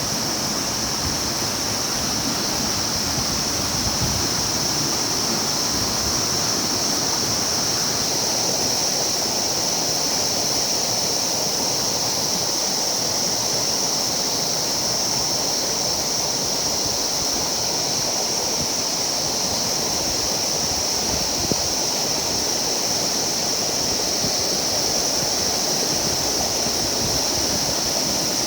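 River water rushing steadily, an even noise with no breaks, with a steady high-pitched hiss running over it.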